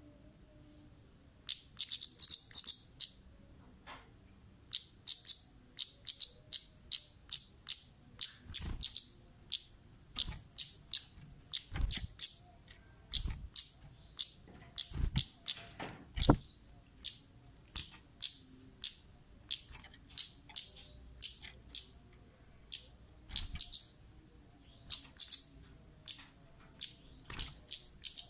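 Kemade bird calling persistently: quick runs of short, sharp, high chirps, several a second, in bursts with brief pauses. A few dull low knocks fall in the middle.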